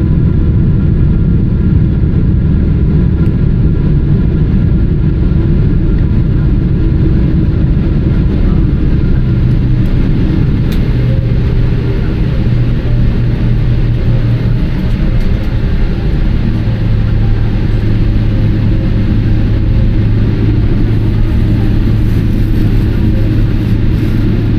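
Cabin noise inside a Boeing 777-300ER around touchdown: a loud, steady low rumble of the GE90 engines and airframe. A low steady hum joins about ten seconds in and holds from about sixteen seconds on.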